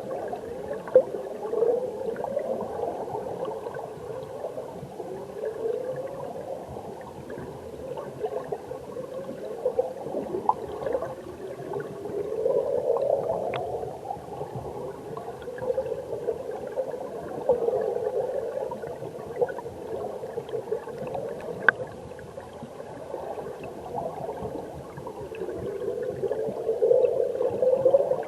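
Stream water heard underwater, gurgling and rushing around the submerged camera, swelling and easing every few seconds, with a few sharp clicks.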